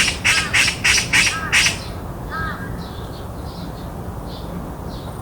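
Oriental magpie giving a quick run of harsh, chattering calls, about three a second, which stop a little under two seconds in; small birds then chirp softly.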